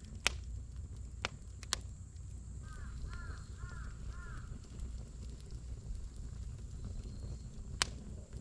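Wood campfire burning with a low steady rumble and a few sharp crackling pops, one right at the start and one near the end. In the middle a bird calls four times in quick succession.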